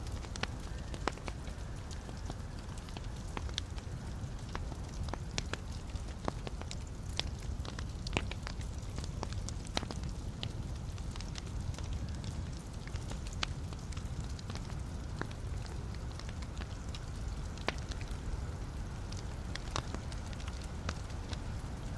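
Wood fire burning in a fireplace: a steady low rumble of flames with irregular sharp crackles and pops of burning logs scattered throughout.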